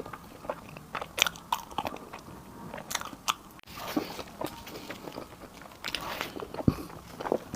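Close-miked eating: a person biting and chewing food, with irregular crunches and wet mouth clicks.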